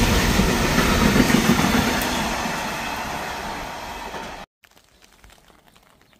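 Container freight train wagons rolling past on the track, a steady rumble with wheel clatter that fades as the last wagons go by. It cuts off suddenly about four and a half seconds in, leaving only a faint background with scattered small ticks.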